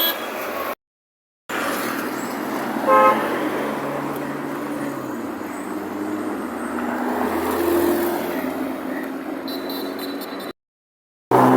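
Road traffic with a running engine, and a car horn tooting once, briefly, about three seconds in. The sound cuts out completely twice for under a second.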